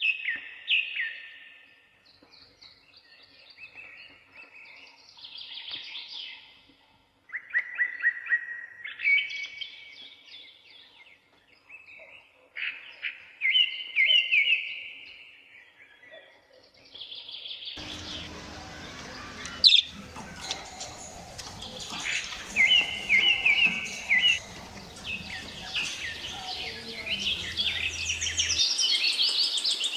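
Birds chirping and twittering in short repeated phrases. Past halfway a steady background noise comes in, with a single sharp click, and the chirping goes on over it.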